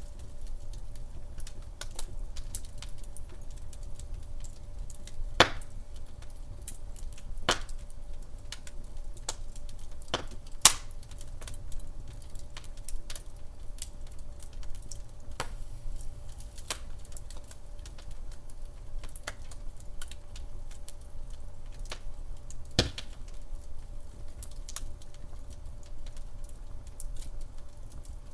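Wood fire crackling in a fireplace: irregular small clicks and pops over a low rumble, with a few louder snaps, about 5, 7, 11 and 23 seconds in.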